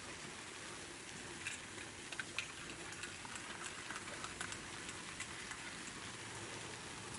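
Small wood fire burning in a secondary-combustion wood stove: a steady hiss with scattered small crackles and ticks, a few sharper pops a couple of seconds in.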